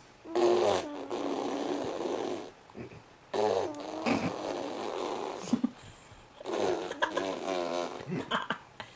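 Animal sound effects added over the video: three separate animal calls, each lasting about two seconds.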